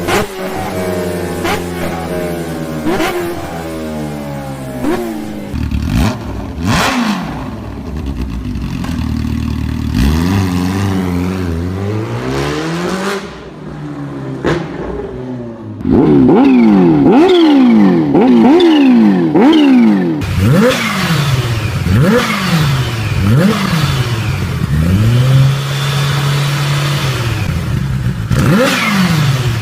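Kawasaki Ninja H2R's supercharged inline-four revved repeatedly through its exhaust, the pitch rising and falling with each blip of the throttle. From about halfway through it is louder, with a run of quick sharp revs and then a longer held rev near the end.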